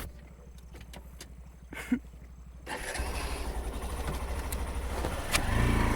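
A motorcycle engine starting up about two and a half seconds in, then running with a fast, steady low pulse.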